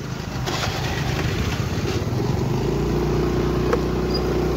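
Small motorbike engine running, its steady low hum settling in clearly about halfway through as the bike gets going.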